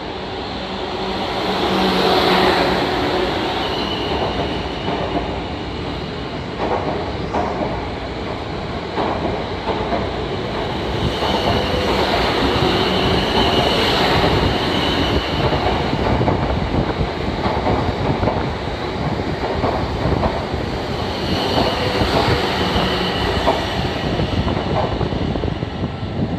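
A train running through on the rails: a steady rush of wheel and running noise, with wheels clacking over rail joints and points and a high wheel squeal that swells in and out several times.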